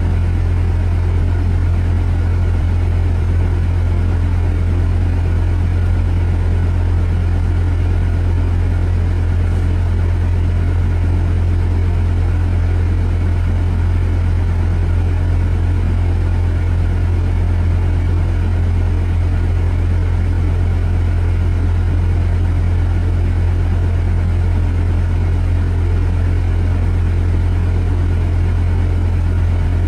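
Steady low rumble of a car's engine and road noise, unchanging, with no distinct events.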